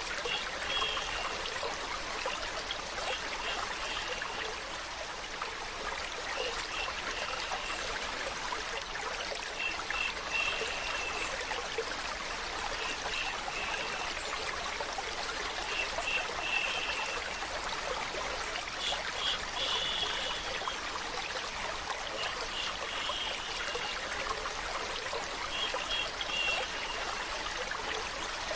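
Running water trickling and babbling steadily, blended with a steady shushing hiss for lulling a baby to sleep. Short high notes recur every few seconds over the flow.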